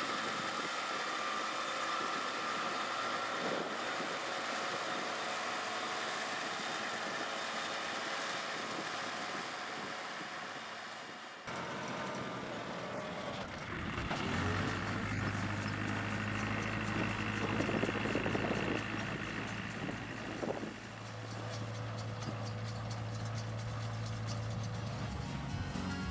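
Engine of a farm machine running steadily. After an abrupt change about eleven seconds in, a steady low hum comes in a few seconds later.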